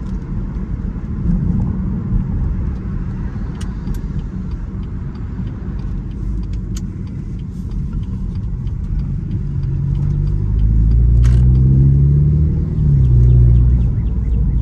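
2018 BMW 330i's B48 turbocharged four-cylinder on a Stage 1 tune, heard from inside the cabin while driving. Under a steady low road rumble, the engine pulls harder about nine seconds in, its note rising and growing louder. Its pitch drops briefly near the end, then climbs again.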